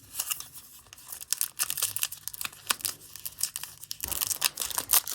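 A foil trading-card pack wrapper being crinkled and torn open: quick, dense crackling that gets busier near the end.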